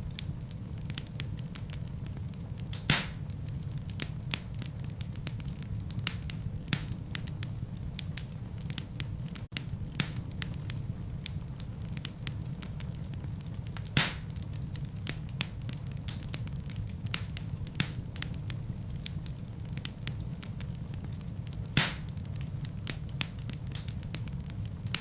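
Wood fire burning in a fireplace: a steady low rumble of flames with frequent small crackles and three louder pops, about 3 seconds in, around the middle, and near the end. The sound drops out for a split second about a third of the way through.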